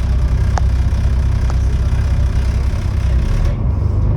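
Volvo B7TL bus's D7C six-cylinder diesel engine idling with a steady low rumble through a blown exhaust. A couple of short rattles come from the bodywork, about half a second and a second and a half in.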